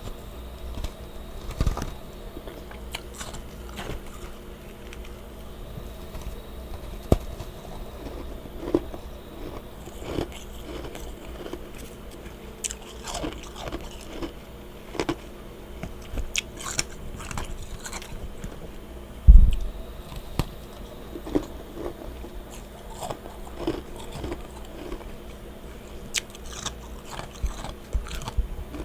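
Close-up mouth sounds of a person biting and chewing powdery freezer frost, in irregular crunches, with one loud low thump about two-thirds of the way through. A steady low hum runs underneath.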